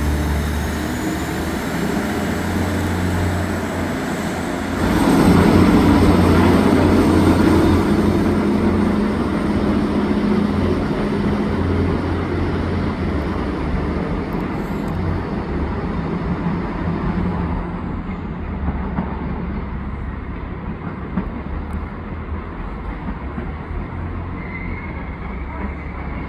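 A train moving through a station: a steady low hum throughout, with the train noise swelling suddenly about five seconds in and then slowly fading.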